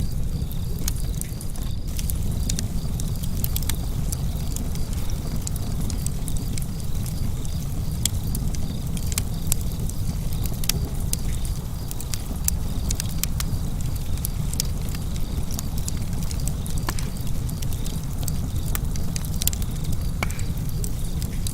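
Fire burning in a fireplace: a steady low rumble with frequent sharp crackles and pops at irregular moments.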